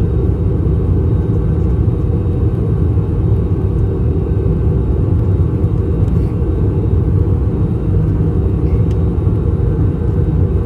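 Steady low rumble of an Airbus A321 cabin in flight during descent: engine and airflow noise heard from a passenger seat.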